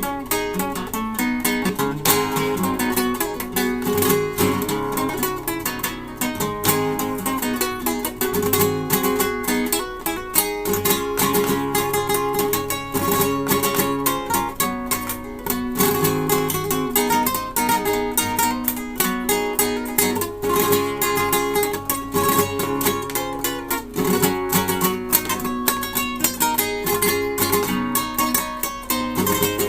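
Solo acoustic guitar playing a piece of many quick plucked notes over held bass notes.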